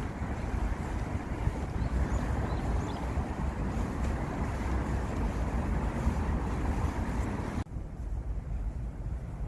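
Wind buffeting the microphone outdoors: a steady low rumble with hiss above it. Near the end the hiss drops away suddenly and leaves only the rumble.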